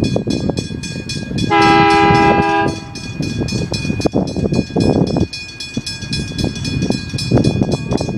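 Train horn sounding one chord-like blast of about a second, starting about a second and a half in. Under it, the steady rumble and rhythmic clatter of train wheels running over the rails.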